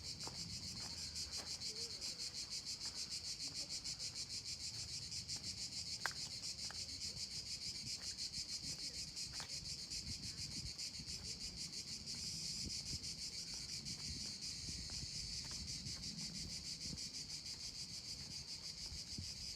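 Insects chirring in a steady, high-pitched chorus that pulses rapidly and evenly, with a few faint clicks.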